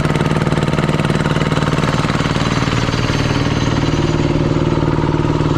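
An engine running at a steady speed, loud and close, with a fast, even chugging beat.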